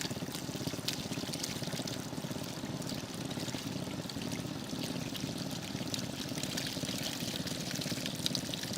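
Water pouring and trickling steadily, with many small scattered splashes.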